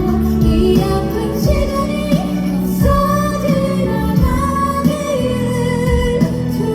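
Female vocal duo singing a Korean pop ballad live over amplified band or backing music, held melodic lines over a steady low accompaniment.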